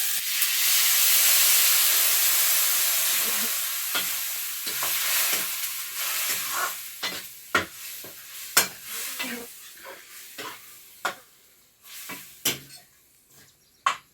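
Food frying in hot oil in a cooking pan, the sizzle loud at first and dying down over several seconds. A spatula scrapes and knocks against the pan now and then as the food is stirred.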